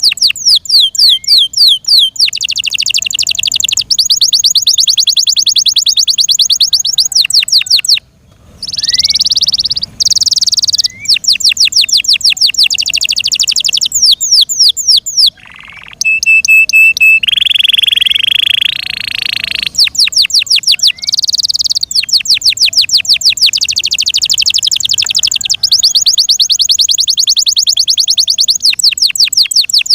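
F1 Yorkshire-cross canary singing: long runs of rapid repeated notes in fast trills, broken by two short pauses, with a single held steady note about halfway through followed by a rougher rolling phrase.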